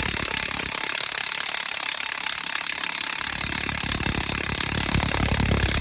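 Milwaukee M18 FUEL 1/2-inch high-torque impact wrench hammering continuously at full speed, breaking loose and spinning off a truck wheel lug nut that was torqued to spec, is rusty and has not been off in a long time. The rapid hammering runs steadily throughout.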